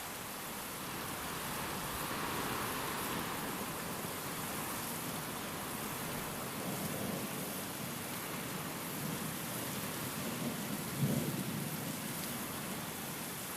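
Steady rain falling with wind. A brief low rumble of thunder comes about eleven seconds in.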